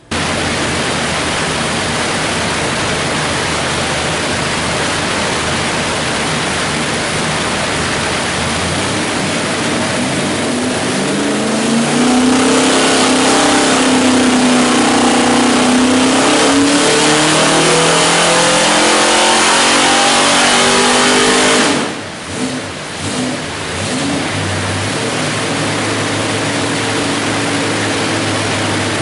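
347 cubic-inch stroker small-block Ford V8 running on an engine dyno, making a pull: the engine note climbs and runs loudest for about ten seconds, then drops off suddenly and settles back to steady running.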